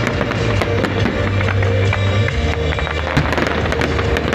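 A fireworks display with shells bursting in many sharp pops and crackles over loud music with sustained notes and a heavy bass.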